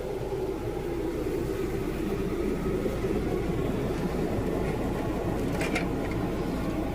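Steady low mechanical rumble with a short click a little before the end.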